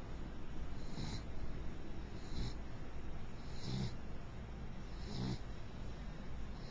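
Mixed-beagle dog snoring in her sleep, a snore about every second and a half.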